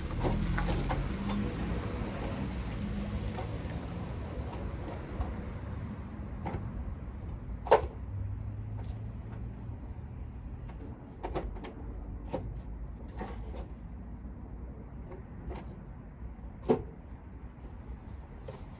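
Scattered knocks and clicks, two sharper ones about eight and seventeen seconds in, over a low rumble that fades away in the first few seconds.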